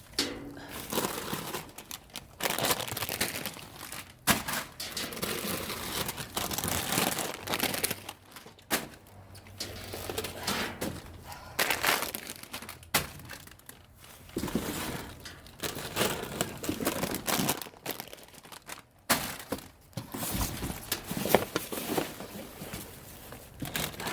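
Plastic bags and packaging crinkling and rustling in irregular bursts as hands dig through dumpster trash, with a few knocks.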